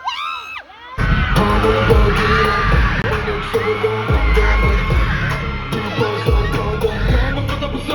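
Crowd screaming, then about a second in loud live pop music starts abruptly over a concert sound system, with heavy bass and singing.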